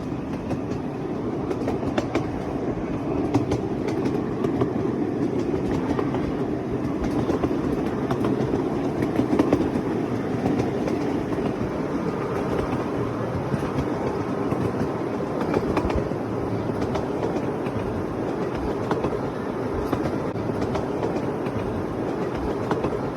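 Miniature ride-on railway train running along its track, the cars rumbling steadily, with scattered clicks and rattles of the wheels over the rails.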